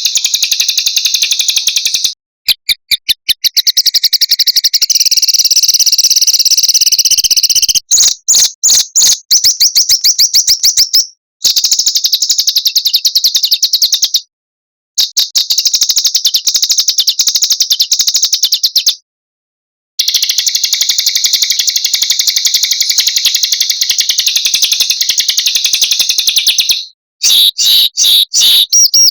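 Small songbirds singing very fast, high-pitched rolling trills and rapid sharp notes in long dense runs. The runs cut off abruptly into brief silences several times. This is an edited birdsong tutoring track of the rapid 'roll and shot' kind.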